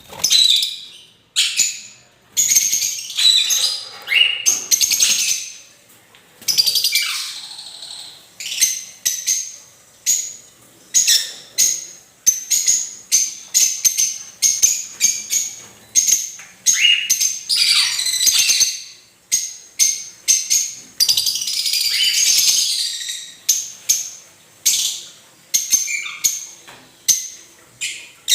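Albino cockatiels giving loud, harsh, repeated calls, about one or two a second, some drawn out into longer screeches.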